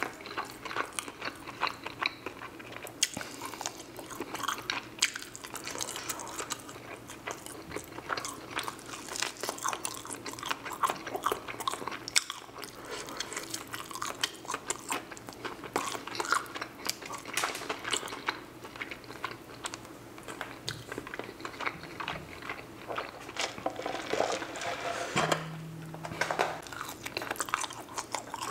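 Close-miked eating: fried chicken being bitten and chewed, with crisp crunching and wet chewing clicks that go on without a break.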